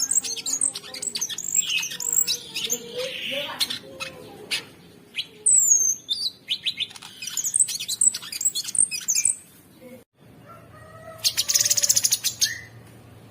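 A cucak sungkok songbird singing a rapid, varied song of sharp chirps, trills and whistled glides. There is a brief break about ten seconds in, then a buzzy trill.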